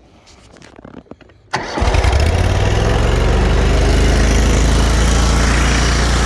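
A few faint clicks, then the mower's 25 hp Kohler Command Pro engine starts about a second and a half in, catching almost at once. It then runs steadily at high throttle.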